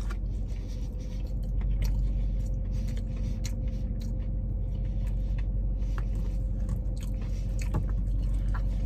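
A man chewing a mouthful of fried-chicken-crust pizza, with many small mouth clicks, over a steady low hum.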